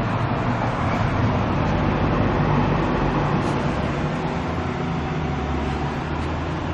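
Steady mechanical running noise with a low hum, growing deeper and stronger about five seconds in.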